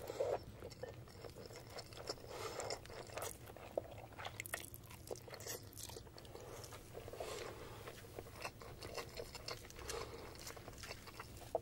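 Close-miked ASMR mouth sounds of a man chewing a big mouthful of spicy instant noodles: irregular smacking and clicking.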